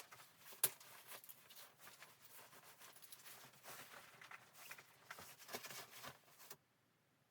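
Quiet handling sounds: a run of small rustles and clicks with one sharper knock just after the start, stopping abruptly about six and a half seconds in.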